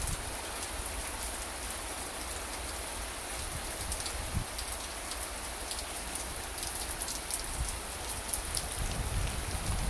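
Steady rain falling, with scattered sharp drop hits close by.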